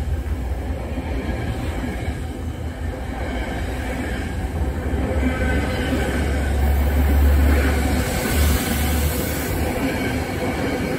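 Metro-North passenger coaches rolling past close by: a steady low rumble of wheels on rail, growing louder with a high wheel squeal about seven seconds in.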